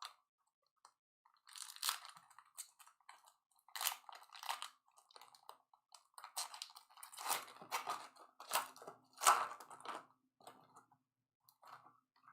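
Trading card packs being ripped open and the cards handled, heard as irregular crinkling and crackling of the wrappers in uneven bursts.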